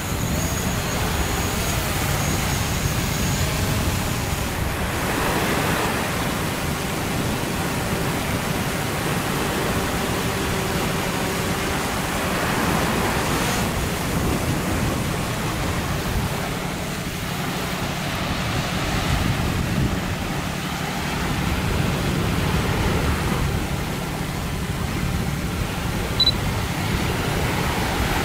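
Steady wind rumbling on the microphone over surf washing on the beach, with one short sharp click near the end.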